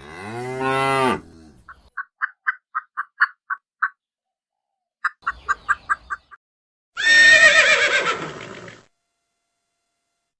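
A series of separate animal calls: a low drawn-out call that rises and falls in pitch, then two runs of quick, short, high notes, then a loud harsh call about seven seconds in.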